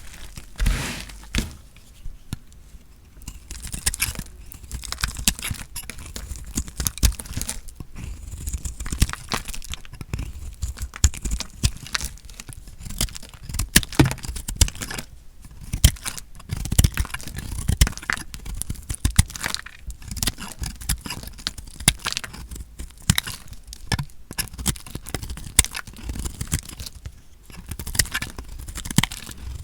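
A knife cutting through dry soap: crisp crunching and crackling as the blade breaks into it, with scraping between the crunches.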